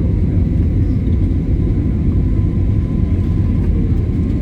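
Airliner cabin noise during the climb after takeoff: a steady low rumble of the engines and airflow, with a faint steady hum above it.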